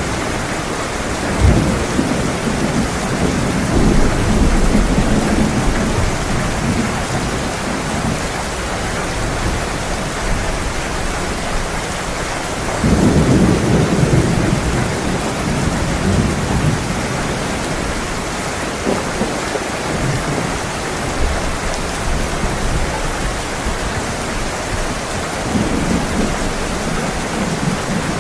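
Heavy rain pouring steadily, with rolls of thunder rumbling in low swells: a sharp crack about a second and a half in, and the loudest roll around thirteen seconds in.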